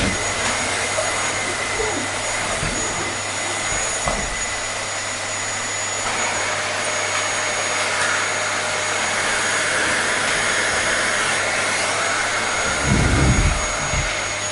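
Vacuum cleaner running steadily: an even rushing hiss with a high motor whine. A brief low thump comes near the end.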